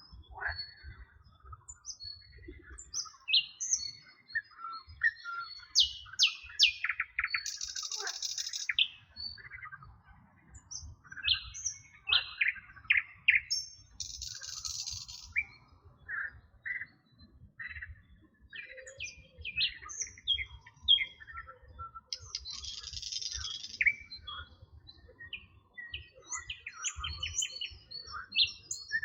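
Several birds chirping and singing in a busy chorus of short, quick notes. A dense, buzzy high trill of about a second breaks in three times, roughly every seven or eight seconds.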